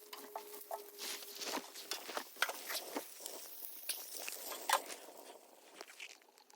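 A run of irregular crunches and clicks, the sharpest about two-thirds of the way through, with a faint steady hum in the first two seconds.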